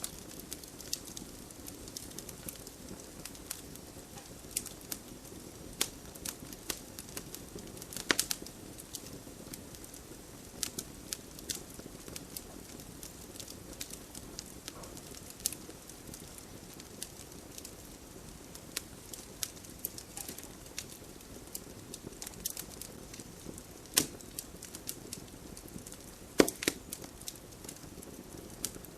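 Wood campfire crackling, with irregular sharp pops over a steady low rush. The loudest pops come about eight seconds in and twice near the end.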